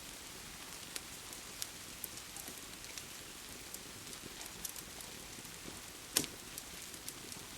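Steady rain with a wood fire crackling: an even hiss of rain, scattered sharp crackles, and one louder pop about six seconds in.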